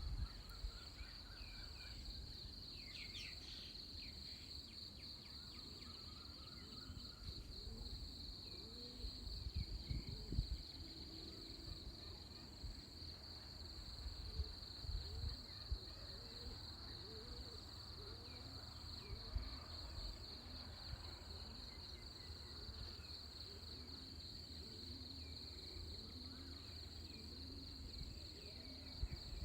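A faint, steady, high-pitched insect chorus of crickets trilling without a break, over a low rumble of breeze. Scattered soft bird calls come through now and then.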